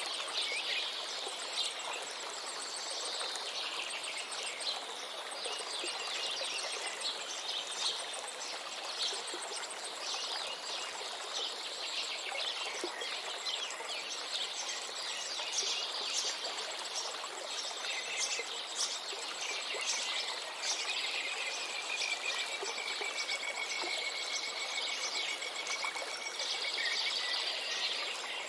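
Many songbirds chirping and singing over the steady rush of a river, with one long, even whistled note in the later part.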